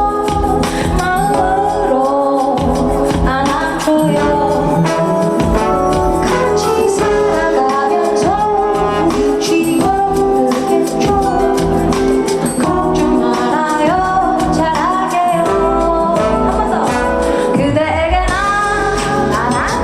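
A woman singing a song live over amplified band accompaniment.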